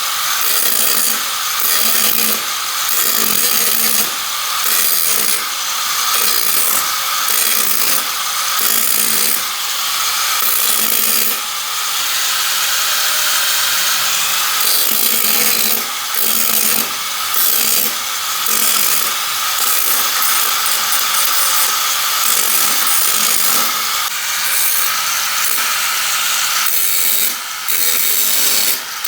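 Power tool grinding the Vespa's rusted steel floor panel, worked back and forth in repeated passes about once a second over a steady motor whine.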